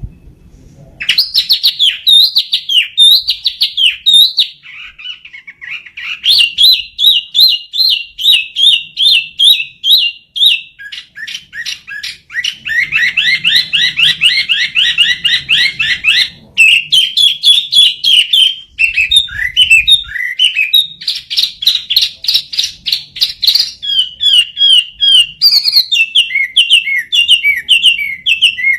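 Chinese hwamei (wambi) singing loudly, in full challenge song: long varied phrases of rapid repeated whistled notes, with short breaks between phrases, starting about a second in.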